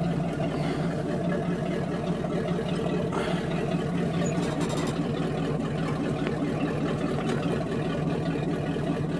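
1979 Chevy 350 small-block V8 idling steadily, the engine still cold from its first start in years.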